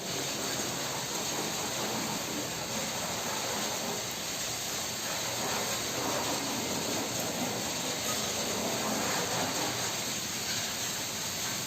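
Steady rain falling: an even, crackling hiss of drops with no break.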